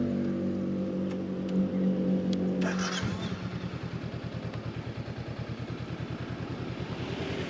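Honda CB500X parallel-twin motorcycle engine running. It holds a steady note for about three seconds, with a short hiss near the end of that stretch, then settles into an even, rapid idle pulse.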